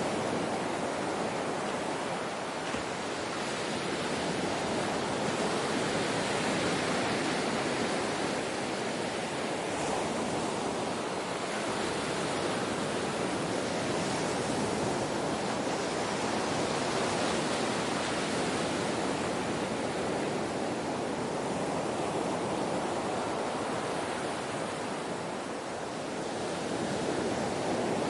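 Ocean waves washing in a continuous rush of surf, swelling and easing slowly over several seconds.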